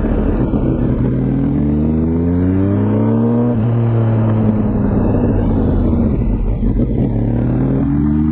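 Exhaust of a 2004 Honda CBR1000RR Fireblade's inline-four engine through an aftermarket Jardine titanium exhaust, running under load while riding. The pitch climbs over the first few seconds, holds and dips, then climbs again near the end as the bike accelerates.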